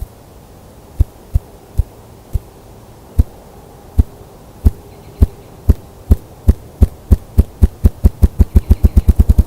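Male ruffed grouse drumming: deep wing-beat thumps starting about a second in, slow at first and speeding up steadily into a fast roll near the end. It is the male's display for claiming territory and calling in females.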